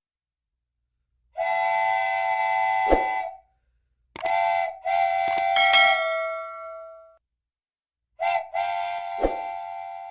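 Train whistle sounding in three blasts with silence between: first one long blast, then twice a short toot followed straight away by a longer blast. A sharp click cuts through each blast.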